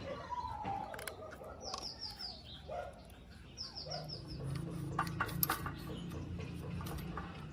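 Birds calling, with two quick runs of high chirps, over scattered light metallic clicks and a steady low hum that starts about halfway through.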